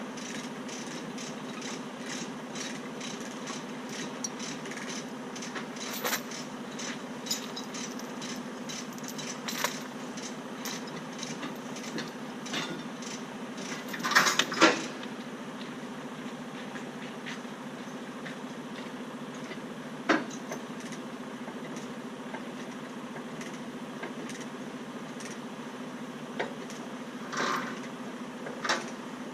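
Diesel heavy-equipment engine idling steadily, with many light metallic clinks and a few louder metal clanks, the loudest about halfway through.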